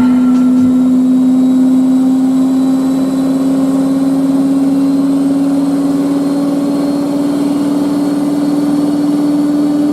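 A loud, steady motor whine that rises slowly in pitch and then cuts off suddenly.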